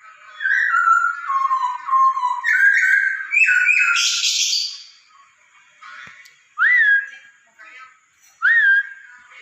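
Poksay Hongkong (masked laughingthrush) singing: a run of loud, clear whistled notes that slide up and down, a harsh rasping burst about four seconds in, then two single upslurred whistles about two seconds apart near the end.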